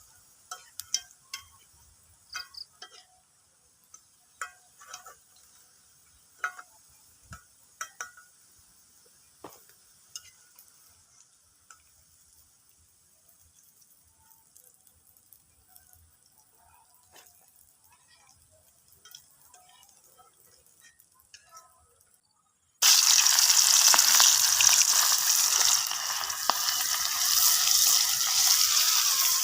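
Scattered sharp clicks and clinks during the first ten seconds or so. About three-quarters of the way in, a loud, steady sizzle of food frying in hot oil starts suddenly.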